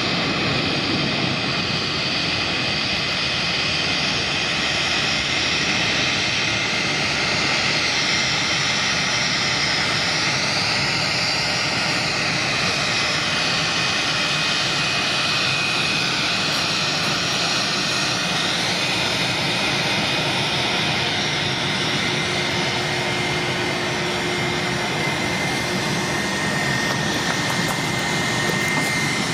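Airbus A330's twin turbofan jet engines running at a steady, even level: a broad rush of noise with whining tones that drift slowly in pitch.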